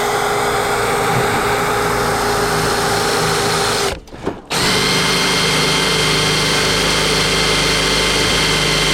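Power drill running a unibit (step drill bit) to bore a hole, in two steady runs with a brief stop about four seconds in. The bit is worn dull, ready for replacing.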